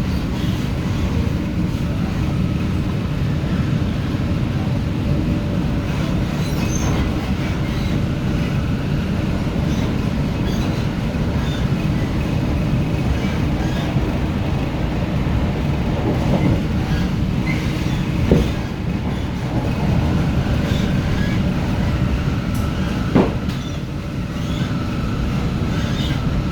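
MTR Tung Chung Line K-stock (Hyundai Rotem) electric train running at speed, heard from on board: a steady low rumble of wheels on rail, with two sharp knocks in the latter part.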